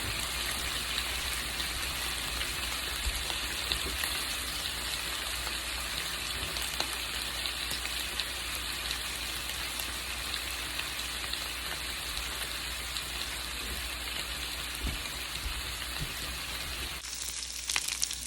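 Chicken-thigh skewers sizzling steadily as they cook, glazed with barbecue sauce. Near the end the sizzle turns brighter and sharper.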